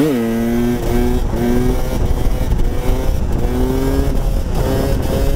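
Enduro motorcycle engine running on the road, its note dipping right at the start and then holding in short steady stretches with small steps in pitch as the throttle is worked. Wind rushes over the microphone underneath.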